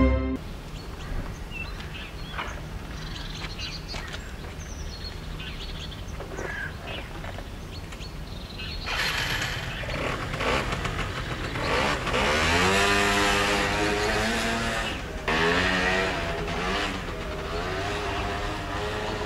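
Aprilia SR 50 scooter's small two-stroke engine running outdoors after restoration, revving up several times with rising pitch, the strongest rev in the middle.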